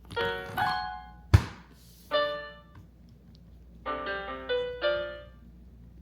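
Electric piano jabbed by a small child: random clusters of notes struck a few at a time, with pauses between them. A single sharp thump a little over a second in is the loudest sound.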